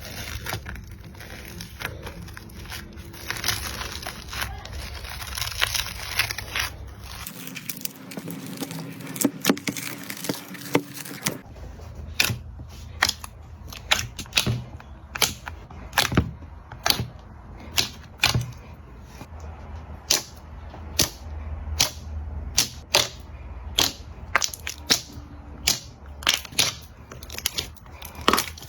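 Slime being handled and pressed: a soft, sticky crackling, changing abruptly twice between clips, then a run of sharp crackles and pops, one to three a second, for the second half.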